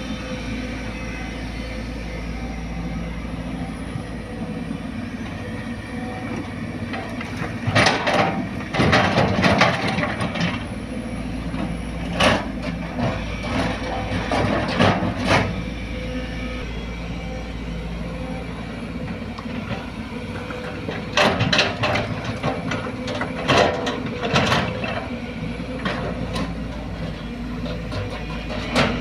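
Excavator diesel engine running steadily, with repeated loud bursts of clanking and rumbling as the bucket works and soil is loaded into a dump truck. The bursts come about eight seconds in, again around twelve and fifteen seconds, and twice more about three-quarters of the way through.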